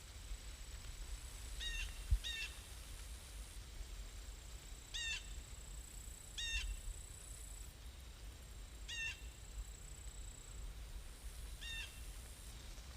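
A bird calling outdoors: six short, sharp calls spread over about ten seconds, some in quick pairs, over a faint low rumble. A brief soft thump comes about two seconds in.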